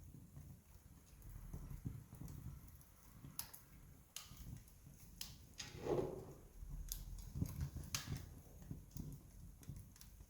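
Wood campfire burning, with sharp crackles and pops at irregular intervals over a low, steady rumble.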